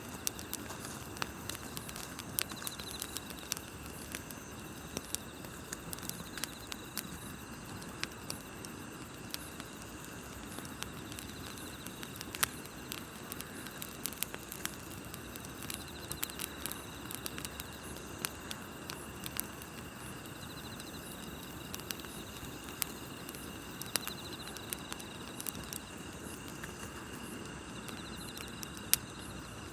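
Wood campfire crackling, with frequent sharp irregular pops, over a steady chorus of crickets and other grass insects chirping, one trill recurring every few seconds.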